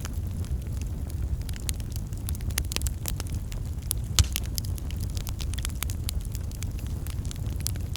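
Wood fire in a fireplace crackling with many small irregular pops over a low steady rumble, the loudest pop about four seconds in.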